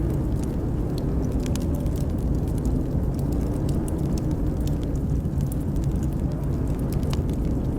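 Howling blizzard wind: a steady low rumble with a faint howl that wavers slowly up and down in pitch, overlaid by scattered sharp pops and crackles of a wood fire burning in a fireplace.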